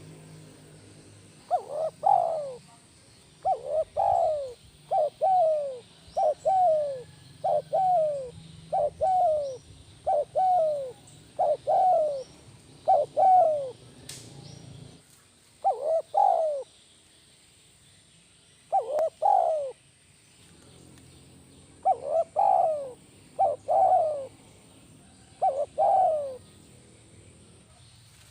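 Spotted dove (tekukur) cooing: a series of short, falling two-part coos, about one a second, then spaced out with a few pauses of two or three seconds.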